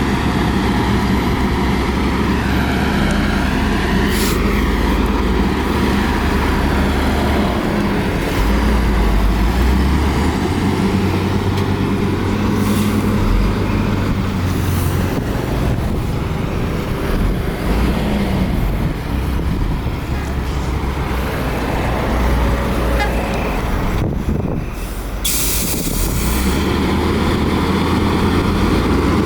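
Heavy diesel engines of a Shantui bulldozer and dump trucks working, the engine pitch rising and falling every few seconds as they rev under load. A short hiss cuts in about three-quarters of the way through.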